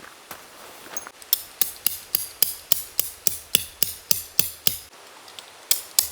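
A hammer driving tent pegs into the ground, a quick even run of ringing strikes at about four a second. The strikes stop briefly just before five seconds, then start again.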